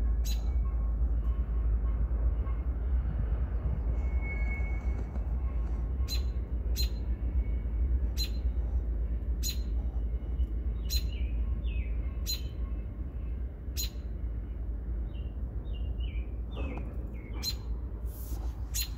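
Short, high bird chirps, about a dozen, mostly spaced a second or so apart in the second half, with a few brief sliding calls, over a steady low rumble.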